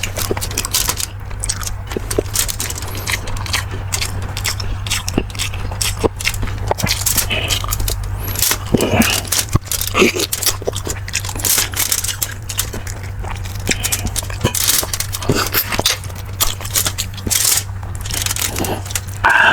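Close-miked eating sounds of someone chewing beef and bone marrow and taking hot broth: a run of wet clicks and smacks, with a steady low hum underneath.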